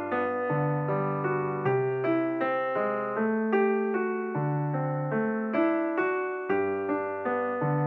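Background music: a piano melody played in a steady, even rhythm, with bass notes under it.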